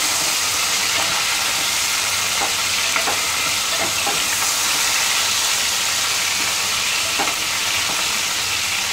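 Boneless chicken pieces frying in hot oil with a steady sizzle, stirred with a wooden spoon that now and then scrapes and knocks against the aluminium pot.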